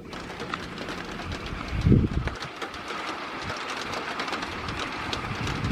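Steady outdoor rumble with wind noise, and a brief low buffet of wind on the microphone about two seconds in.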